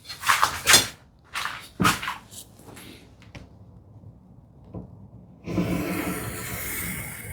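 Wooden drawer front knocked a few times against the cabinet opening as it is fitted, then a steady scraping rub of wood on wood for about two seconds near the end.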